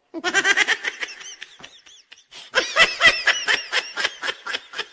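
Laughter in rapid, high-pitched ha-ha pulses, in two bouts: one in the first second and a half, then a louder one about a second later.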